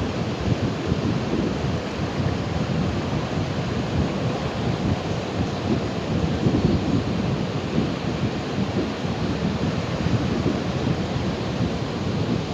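Ocean surf: waves rolling and breaking in a continuous, low, rumbling rush with no pauses.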